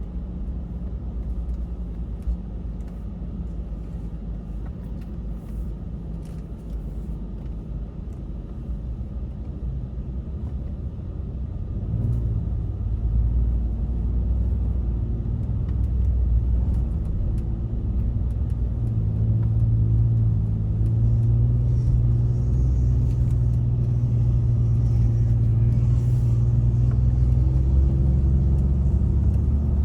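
Truck engine running with a steady low note, growing louder about twelve seconds in and staying there.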